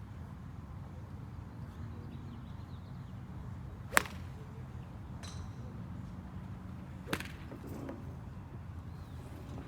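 Golf balls struck by clubs: one loud, sharp crack about four seconds in, then fainter cracks around five seconds and another about seven seconds in, over a steady low background rumble.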